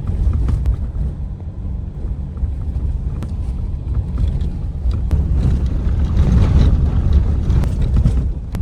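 Wind buffeting the microphone: a loud, gusty low rumble that swells about five seconds in.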